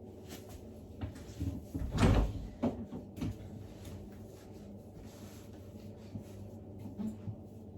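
A few knocks and clatters of household things being handled, the loudest about two seconds in, then quieter rustling.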